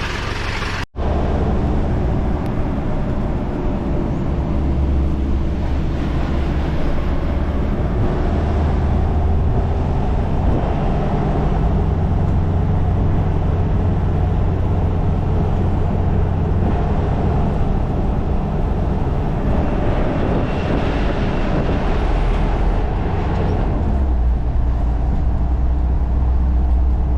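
Steady running noise of a vehicle on the move: a low engine hum with road and tyre noise, broken by a brief cut-out about a second in.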